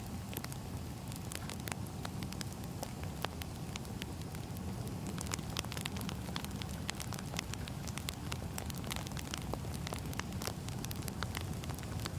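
Wood fire crackling: irregular sharp pops and snaps of burning firewood over a steady low rumble.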